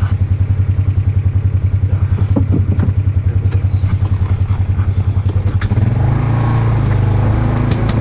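Vehicle engine running at a low, evenly pulsing chug, then picking up to a steadier, stronger run about six seconds in.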